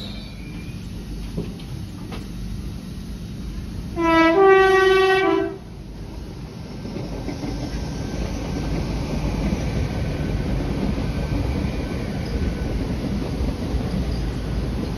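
Two-tone train horn about four seconds in, a low note, a higher note held for about a second, then the low note again, about a second and a half in all. Then the rumble and wheel clatter of a GWR Hitachi Intercity Express Train running along the track, building up and then steady.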